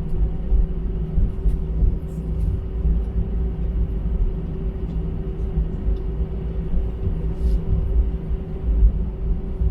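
Airbus A320 cabin noise while taxiing after landing: a steady low rumble with a constant hum, and a few faint clicks.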